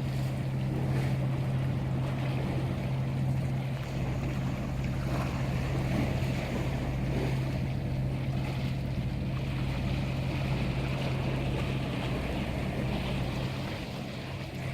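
A boat's engine running with a steady low hum, with wind and sea noise.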